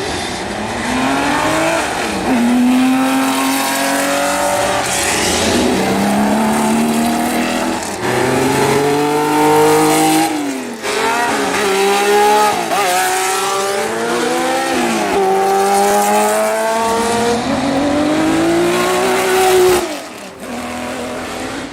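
Classic car engines accelerating hard through the gears. The engine note climbs and drops back at each upshift, over several runs in a row.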